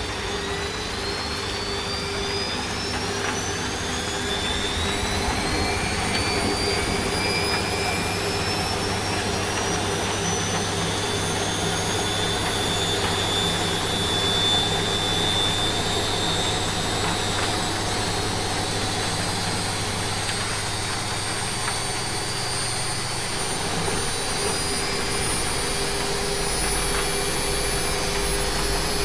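Washing machine in its spin cycle: the motor's whine climbs steadily in pitch as the drum speeds up, with a low hum beneath, over a steady hiss of rain.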